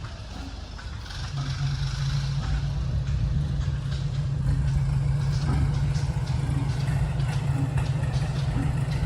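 An engine running steadily: a low hum that comes in about a second in and grows a little louder.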